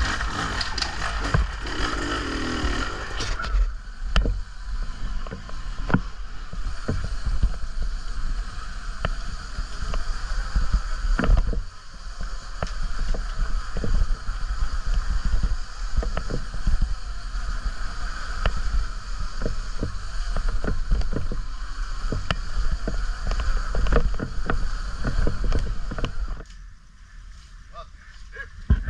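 Riding noise from an off-road bike on a muddy trail: heavy wind rumble on the camera microphone, a steady whine from the bike, and frequent knocks and rattles over rough ground. It drops off sharply near the end, then picks up again.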